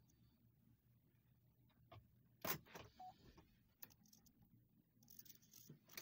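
Faint low hum of a V8 engine idling, heard inside the cab, with a few sharp clicks; the loudest click comes about two and a half seconds in.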